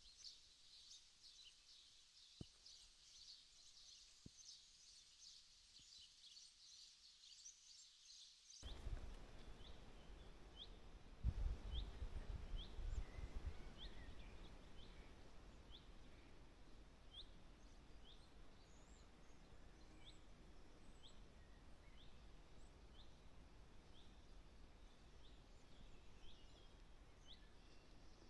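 Faint outdoor birdsong: several songbirds chirping and singing together, then a single bird repeating one short high call about once a second. A low rumble comes in briefly a few seconds after the change.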